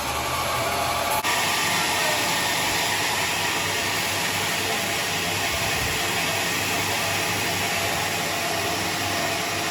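Sawmill saw running steadily: a continuous noisy hiss with a faint whine, briefly dipping about a second in.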